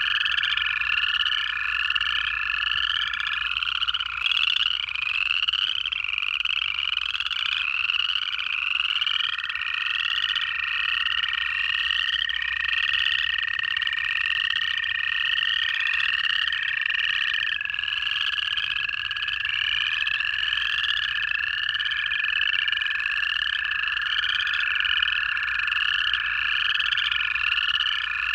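Dense pond chorus of upland chorus frogs giving rapid rising trills over and over. Long, steady American toad trills overlap them, one ending a few seconds in and others starting around nine seconds and running on for several seconds.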